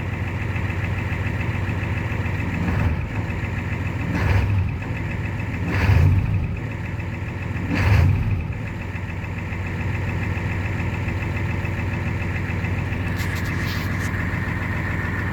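1994 Ford F-250's 7.3-litre V8 diesel, fitted with a Banks turbo kit and Banks stainless exhaust, blipped four times in quick succession in the first half, each a short rise and fall, then settling back to a steady idle. Its exhaust note is a little more throaty with the Banks exhaust.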